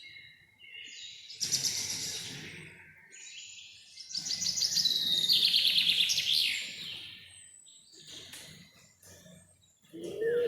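Songbirds singing two rapid trilling phrases, one about a second and a half in and a longer, louder one from about four to seven seconds. A low owl hoot begins right at the end.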